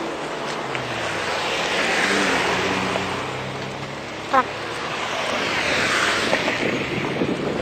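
Two cars passing by on a street one after the other, each swelling and fading away, with a short sharp falling squeak between them. The audio is sped up to double speed.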